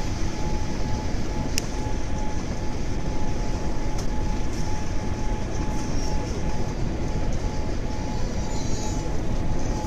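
Boeing 787-8 cabin noise: a loud, steady rumble with a faint constant tone running through it and a few sharp clicks from cabin fittings rattling.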